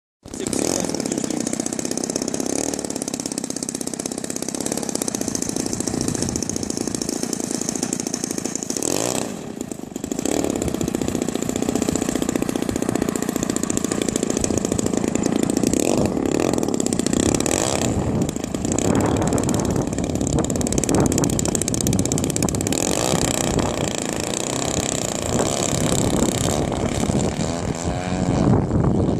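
EME 35cc two-stroke gasoline engine of a large RC aerobatic plane running with its propeller turning, the throttle eased back briefly about nine seconds in, then opened up again and varied.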